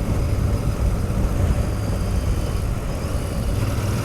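Royal Enfield Continental GT650's parallel-twin engine running steadily on the move, with a constant rush of wind and road noise.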